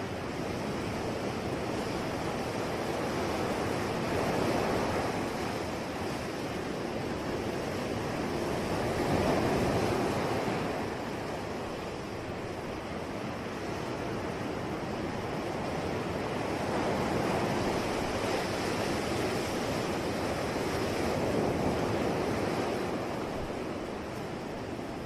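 Sea waves washing onto the shore, the surf swelling and easing in slow surges, with four louder crests a few seconds apart.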